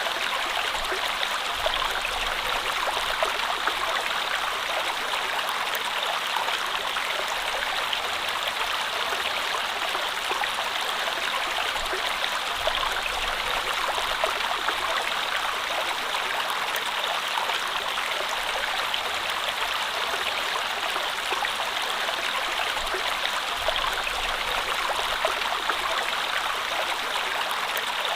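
Flowing water, a steady, even rush with fine small splashes throughout.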